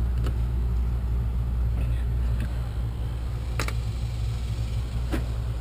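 A steady low rumble, like a motor or engine running nearby, with three short faint clicks of the electrical cable being handled.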